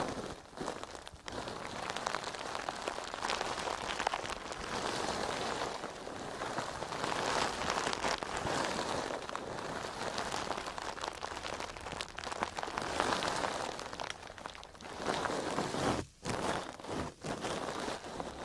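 A crisp, crackly ASMR sponge being worked close to the microphone: a dense crackling like rain on a surface that swells and eases in waves, with two brief pauses near the end.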